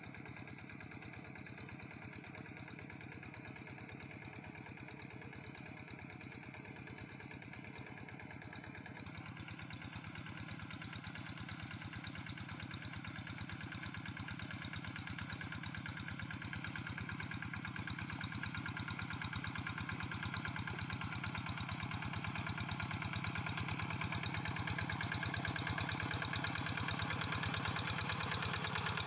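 Quick G3000 hand tractor's engine running steadily with a rapid, even beat. At about nine seconds in its sound turns brighter, and it then grows gradually louder.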